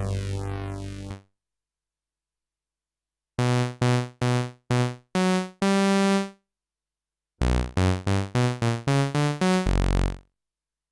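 Sequential OB-6 analog synthesizer. A held tone, swept by a notch filter, cuts off about a second in. After a pause come two short bass riffs of sawtooth notes: about six staccato notes ending on a longer one, then a quicker run of about ten notes near the end.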